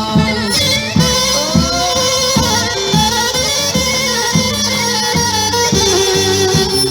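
Gajde (Balkan bagpipe) playing a folk dance tune over a steady drone, with a drum beating about two strokes a second.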